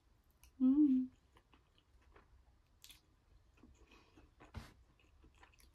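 Close-up mouth sounds of a person chewing a mouthful of curry: faint, scattered wet clicks. A short voiced 'mm' comes about half a second in, and there is a sharper click about two-thirds of the way through.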